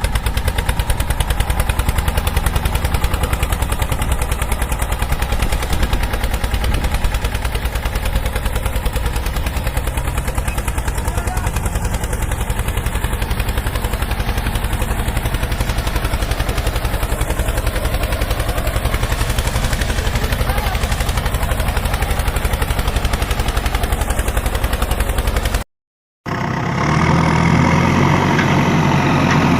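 An engine running steadily with rapid, even firing pulses. It cuts out near the end, and after a brief gap a heavier, lower engine sound takes over.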